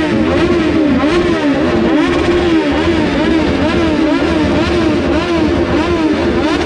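Motorcycle engine being revved over and over, its pitch dipping and rising again about twice a second.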